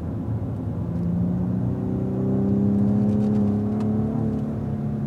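Cadillac ATS-V's twin-turbo V6 pulling hard in fourth gear, its note rising steadily as the car accelerates, then easing slightly near the end, with tyre and road noise beneath.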